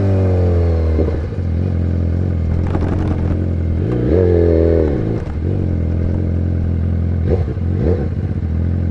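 BMW S1000RR inline-four through an Arrow Pro exhaust idling, its revs dropping back in the first second, one throttle blip rising and falling about four seconds in, and two short quick blips near the end.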